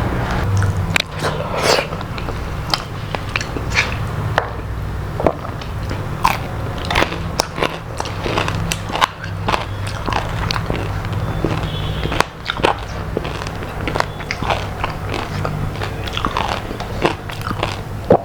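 A person chewing and crunching food close to the microphone, with many small crackling, smacking clicks, over a steady low hum.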